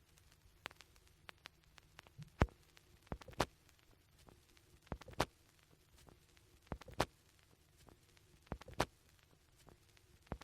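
Vinyl record surface noise with a faint hum and a pair of sharp clicks repeating about every 1.8 seconds. This is the stylus riding the run-out groove of an LP at 33⅓ rpm after the track has ended.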